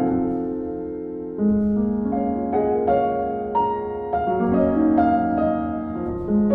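Piano playing a slow, gentle piece: a melody over sustained chords, each note struck and left to ring and fade.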